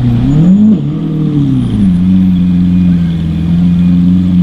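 A supercar engine revving: its note dips, climbs sharply twice in the first two seconds, then settles into a steady drone.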